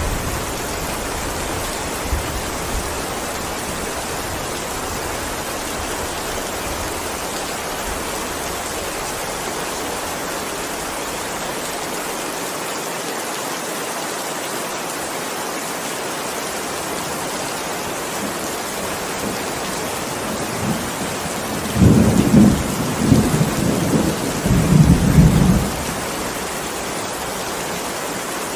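Steady heavy rain, with a rumble of thunder a few seconds long late on, the loudest thing heard.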